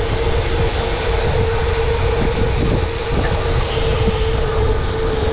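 Wind rushing over the microphone of a camera on a moving bicycle, with a steady mid-pitched hum that holds one pitch throughout.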